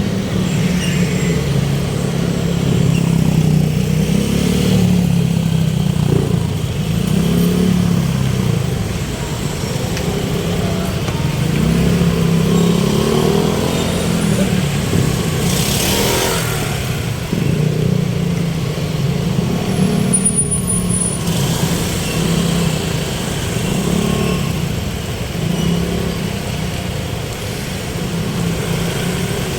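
Motor vehicle engine running while on the move, its hum rising and falling in pitch as it speeds up and slows, over steady road noise.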